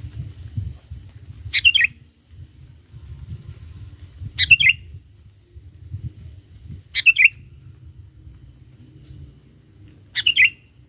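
Sooty-headed bulbul (kutilang) calling: four short, quick, bubbly phrases, each spaced about three seconds apart, over a low rumble.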